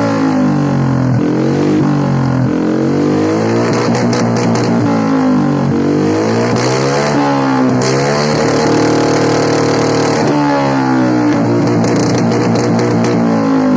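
Vespa Sprint 150 i-get scooter engine through a Best3 full-system racing exhaust being revved: the pitch rises and falls back several times, is held steady for a moment about two-thirds of the way through, then rises and falls again.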